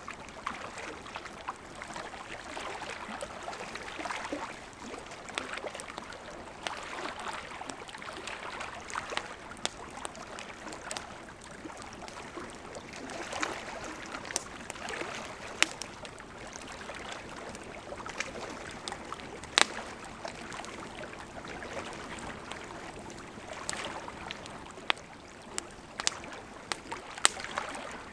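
Wood campfire burning: a steady soft hiss of flames with frequent irregular crackles and pops of burning wood, one sharper pop about twenty seconds in.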